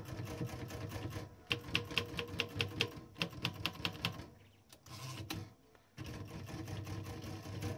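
Klein Adler 2 portable manual typewriter being typed on in quick runs of keystrokes, several sharp type-bar strikes a second with short pauses between runs; the machine has just been repaired and is working.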